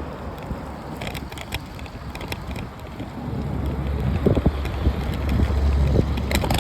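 Wind buffeting the microphone of a moving rider, with scattered light clicks and rattles. The low rumble grows louder from about halfway in.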